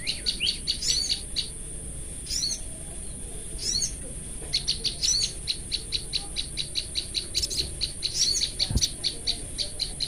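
A sogon (little spiderhunter) and a wild prenjak lumut calling against each other. Short high warbled phrases are answered by sharp chip notes, which from about halfway run in a fast even series of about four a second. A steady thin high whine runs beneath them, and there is one soft thump near the end.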